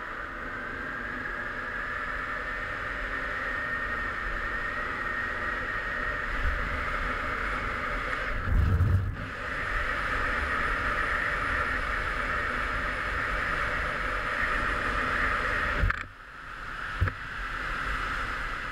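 Derbi Senda Xtreme 50's 50cc two-stroke engine running at high revs under way, its high buzzing note climbing slowly, with wind rushing over the helmet-mounted microphone. The engine note cuts out briefly about halfway through with a low thump, and drops sharply again near the end before building back up.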